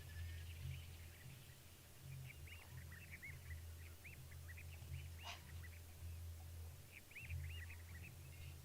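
Many short, high chirping animal calls in scattered runs over a steady low hum, with one brief click a little past halfway.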